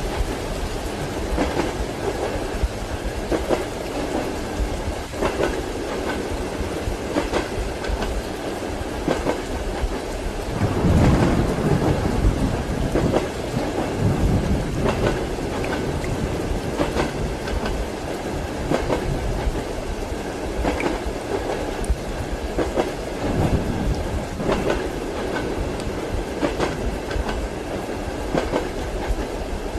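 Rain and the clickety-clack of a passenger train's wheels over the rail joints, heard from inside a compartment, with a rumble of thunder swelling about eleven seconds in.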